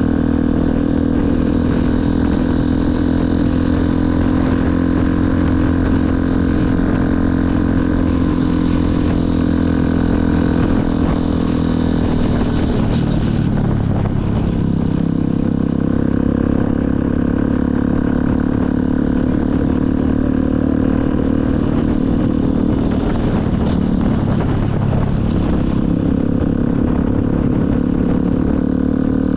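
Motorcycle engine running steadily under way. Its pitch drops twice, about halfway through and again a few seconds before the end, then climbs back each time as the engine slows and picks up again.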